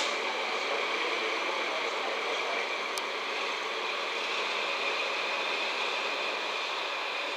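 A DD51 diesel locomotive and 12-series passenger coaches rolling slowly past: a steady running noise with a faint high whine, and a single sharp click about three seconds in.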